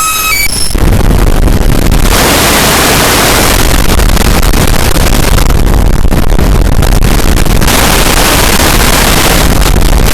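Harsh noise music: a loud, dense wall of distorted electronic noise. A few high whistling feedback tones cut out in the first moment. After that the texture swaps between brighter, hissier stretches and duller, rumbling ones every couple of seconds.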